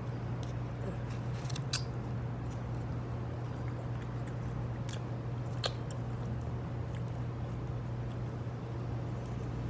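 A person chewing a mouthful of coleslaw, with a few faint clicks, over a steady low hum.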